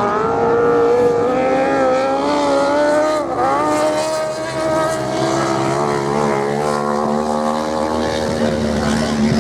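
Racing motorcycle engines running hard on a sand track, several engine notes at once, rising slowly in pitch with a brief sharp dip about three seconds in.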